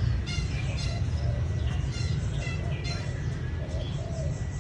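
Small birds chirping in quick repeated high notes while pigeons coo lower down, over a steady low rumble.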